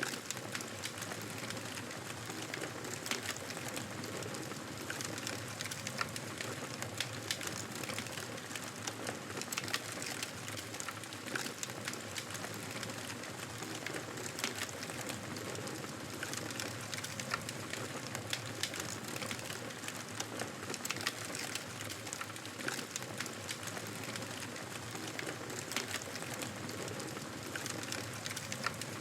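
Campfire burning, with constant crackling and frequent sharp pops over a soft steady hiss.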